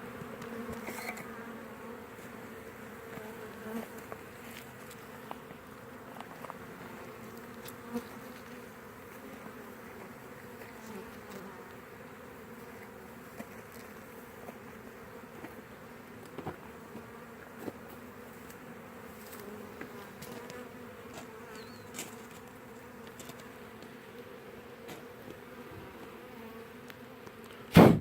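Honeybee swarm buzzing as it moves into a new hive: a steady low hum with a few faint ticks. A single sharp knock comes right at the end.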